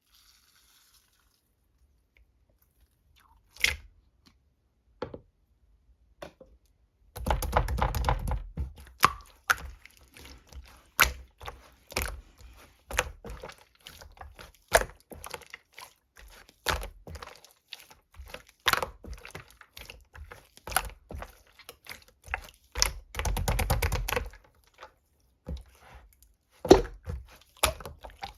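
Colourless semi-transparent slime being squeezed and poked by hand, making a run of sharp clicking pops and squelches. It begins about three and a half seconds in, with denser crackling stretches about seven seconds in and again later on.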